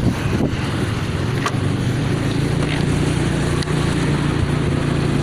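Motorcycle engine running at a steady pitch, with a hiss of noise over it.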